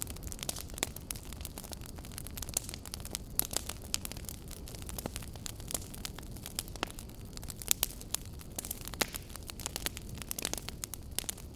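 Wood fire burning, with frequent irregular crackles and pops from the logs over a steady low rush of flame.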